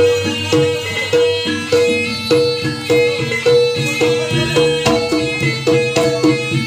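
Jaranan gamelan music: metallophones ring out a fast, repeating melody of struck notes over kendang drumming.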